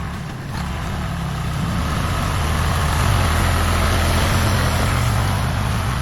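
A heavy vehicle's engine running, a low rumble that builds over the first three seconds and then holds steady, over a constant hiss.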